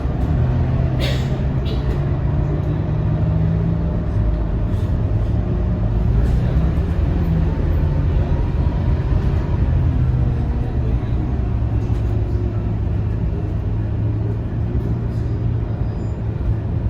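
Scania K230UB city bus's five-cylinder diesel engine running steadily under way, heard from inside the bus. There is a short hiss about a second in, and the drone drops in pitch around eight seconds in.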